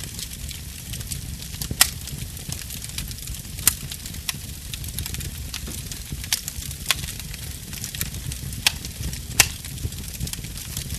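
Burning wood fire crackling over a steady low rumble of flame, with a handful of sharp pops from the wood a second or two apart.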